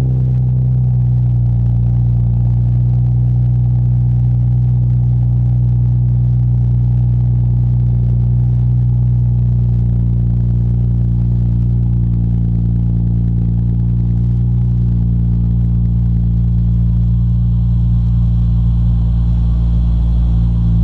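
2013 Mercedes-Benz C300's 3.0 V6 idling steadily just after a cold start, heard through a custom Magnaflow exhaust with straight-through mufflers, an X-pipe and the secondary cats deleted. A deep, even exhaust rumble at cold high idle, with no revs.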